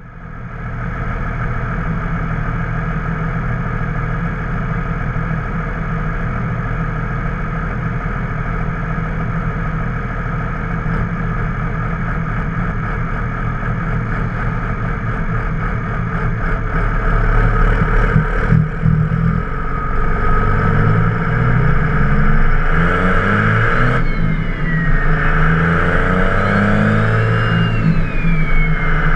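Twin-turbo 24-valve Cummins 5.9-litre inline-six diesel running steadily, then from about 18 seconds in revving up and down and getting louder. Near the end a turbo whistle rises and falls with the revs.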